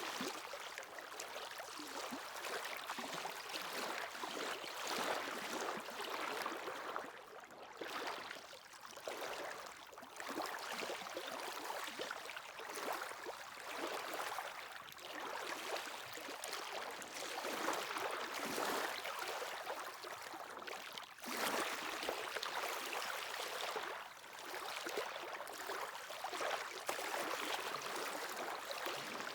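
Sea waves breaking and washing onto the shore, a steady hiss of water that swells and eases every few seconds.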